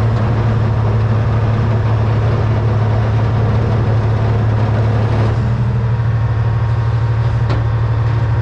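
Diesel engine of a 1978 Hein-Werner 25-ton excavator running steadily under operation, a low, even drone, with a faint tap about five seconds in and another a couple of seconds later.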